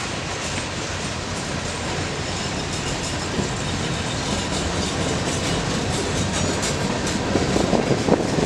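Train cars rolling past on the track, their wheels clicking over the rail joints, growing slightly louder toward the end.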